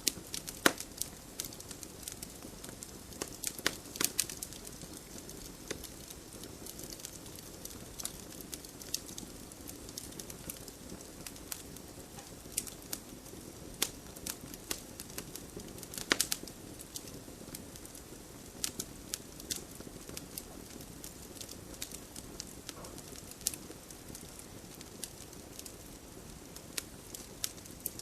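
Campfire burning, with a steady low rush of flame and irregular sharp crackles and pops from the burning wood, a few louder pops standing out about a second, four seconds and sixteen seconds in.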